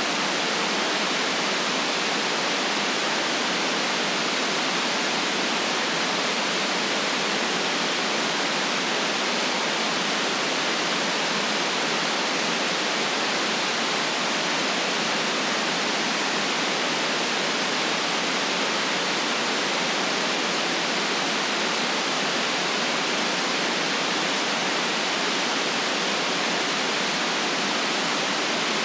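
Steady, unchanging synthetic white noise, an even hiss cut off below the low bass and above the highest treble.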